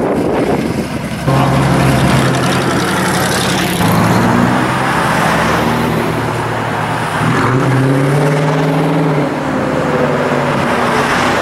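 Muscle cars' engines running as the cars drive along a street. There is a sudden change about a second in, after which the engine notes of approaching cars rise and fall as they accelerate and shift.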